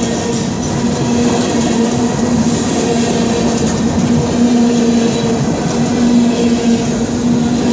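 Freight cars rolling past close by at a grade crossing: a loud, steady rumble and rattle of steel wheels on the rails, with a low hum that comes and goes.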